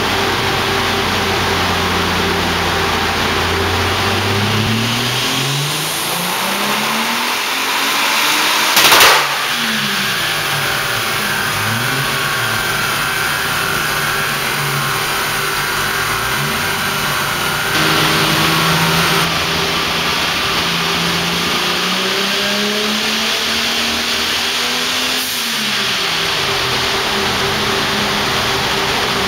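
Turbocharged BMW E30 Touring engine under load on a chassis dynamometer. It idles, then revs up in a rising sweep to a loud, sharp bang about nine seconds in. The revs fall and rise several times, then make a long climb that cuts off sharply before dropping back to idle near the end, with a steady hum underneath throughout.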